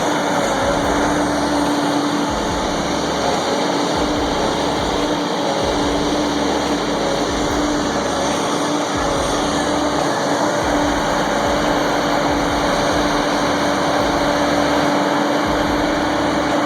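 A heavy machine's engine running steadily, a constant low hum over a loud, even rush of noise.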